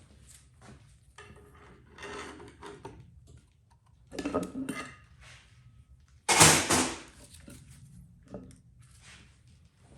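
Metal tools and engine parts clattering and clanking as they are handled and set down, with a loud clank about six and a half seconds in.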